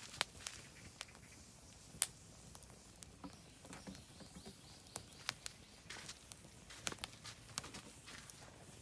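Oak firewood burning in a fire pit, giving irregular sharp crackles and pops over a low hiss, with the loudest pop about two seconds in.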